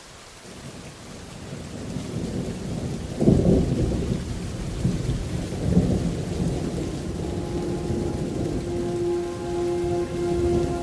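Rolling thunder over steady rain: a low rumble builds, swells sharply about three seconds in, and rumbles on. Sustained music notes fade in over it in the second half.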